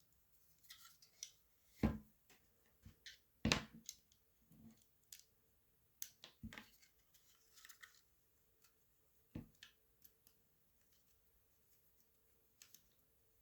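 Scattered light clicks and knocks of small parts and tools being handled during reassembly of a paintball marker's receiver, with two louder knocks about two and three and a half seconds in.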